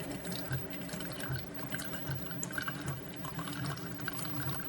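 Single-serve pod coffee maker brewing: its pump humming with a pulsing beat while hot liquid streams and drips into the cup.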